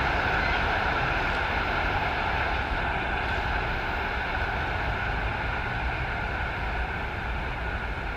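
A train running on the line, a steady rumble and rail noise that slowly fades as it moves away.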